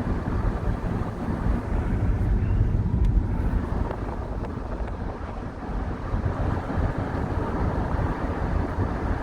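Steady road and engine noise inside the cabin of a moving vehicle, a low rumble with no sudden events.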